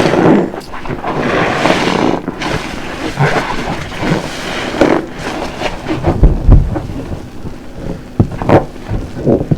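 Large car-wash sponge full of dish-soap lather being squeezed again and again close to the microphone: wet squelching and foamy crackle in irregular strokes, with one deep, heavy squeeze about six seconds in.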